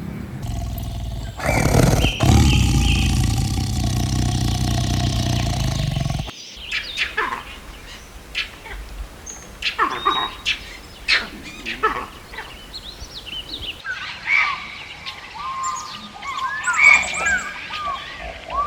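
Birds chirping and calling in many short, quick notes, some bending up and down in pitch. Before this, the first six seconds hold a loud, noisy rumble with a steady tone that stops suddenly.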